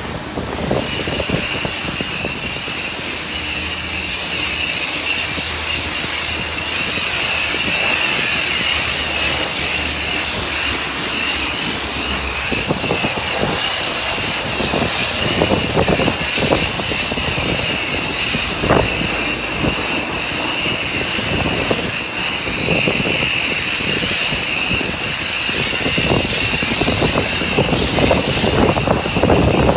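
High-pressure wand of a self-service car wash spraying a car, a steady loud hiss of the water jet that starts about a second in. A low hum runs underneath for roughly the first half.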